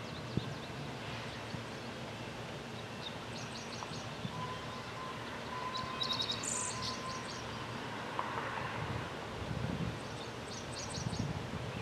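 Small birds chirping in short, rapid high trills three times, over a low steady background rumble.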